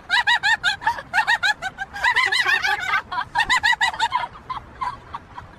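High-pitched laughter: quick runs of short 'ha' notes, about six a second, in several bursts that fade away near the end.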